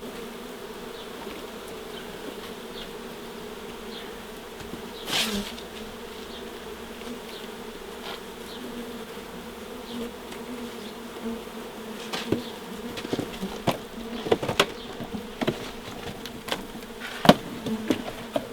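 A mass of honeybees buzzing steadily around an opened wild nest. Scattered knocks and taps from handling come through the buzz, one loud about five seconds in and many more in the last six seconds.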